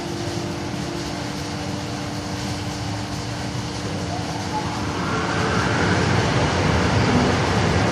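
Car engine idling, heard from inside the cabin, a steady noise that grows louder about five seconds in.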